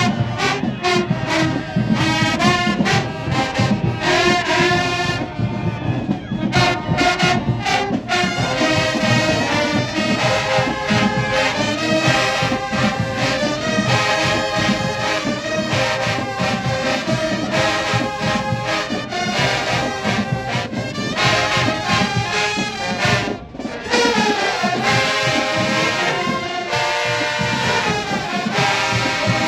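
Marching band playing: trombones and trumpets over a steady drum beat, with a brief break about 23 seconds in.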